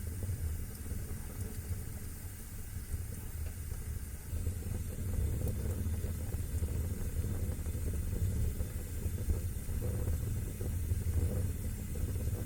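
Wood fire burning in a fireplace: a steady low rumble and hiss, with faint crackling.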